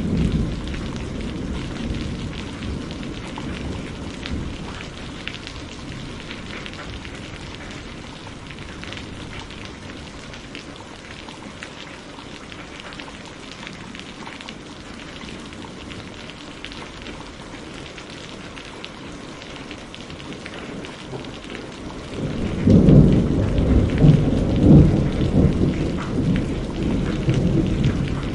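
Steady rain falling, with thunder: a low rumble dies away over the first few seconds, and a louder rolling peal of thunder sets in about three quarters of the way through and rumbles on in surges.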